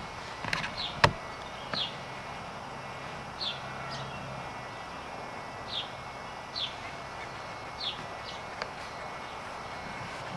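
A bird repeating a short, high, falling chirp every second or two over a steady tape hiss, with one sharp click about a second in.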